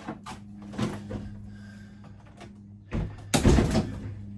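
Knocks and a short clatter of interior fittings being handled, loudest about three seconds in, over a steady low hum.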